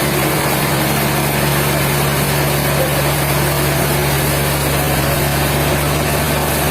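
Sawmill machinery motor running steadily at one constant pitch, with no change in load.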